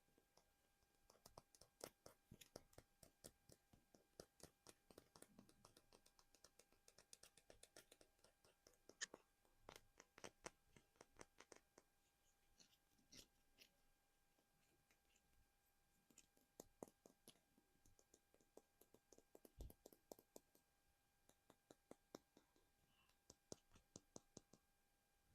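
Fingernails tapping and scratching on a small plastic figurine: quick, light, irregular clicks in bursts of several a second, with short pauses between bursts.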